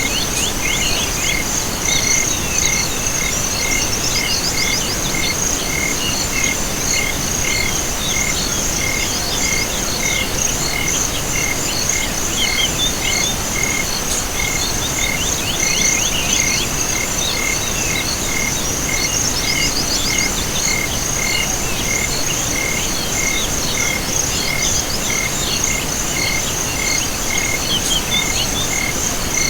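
Night chorus of crickets and other insects with frogs calling: a steady high insect buzz, a short chirp repeating at an even pace, and scattered trills over a constant hiss.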